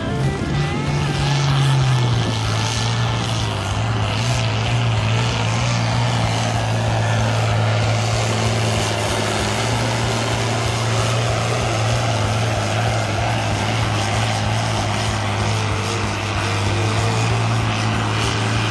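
Farm tractor engine running hard while pulling a weight sled in a tractor pull. Its pitch rises at the start, drops about two seconds in, holds steady for the rest of the pull and cuts off abruptly at the end.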